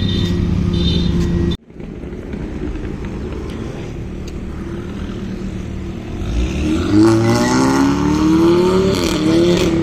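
Vehicle engine running steadily, then after an abrupt cut it accelerates with a rising pitch that dips briefly near the end, as at a gear change, and climbs again.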